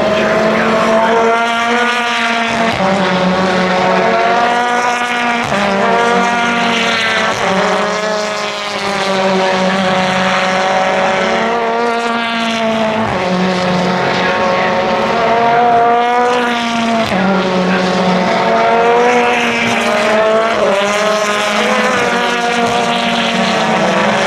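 Racing car engines at full throttle, the pitch climbing and then dropping sharply again and again as the cars change up through the gears, one car after another.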